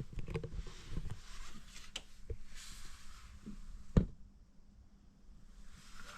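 Light clicks and rustling from hands handling tools or engine parts, with one sharp knock about four seconds in.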